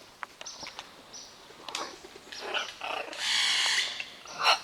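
Parrots squabbling: short harsh squawks and clicks, a long raspy screech a little past the middle, and a loud squawk near the end.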